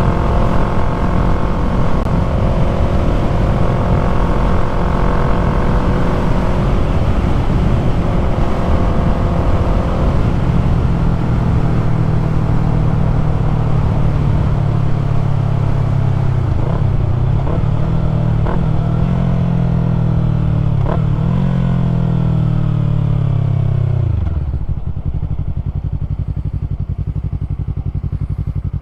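2020 Yamaha MT-03's parallel-twin engine running through a full-system aftermarket exhaust while riding, with wind noise. The engine note climbs and dips several times, then falls away and quietens about three-quarters of the way through as the throttle is rolled off.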